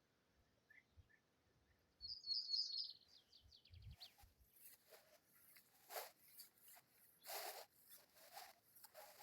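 A small songbird sings a short, quick trill about two seconds in, its notes stepping down in pitch, followed by a string of brief soft noises about twice a second.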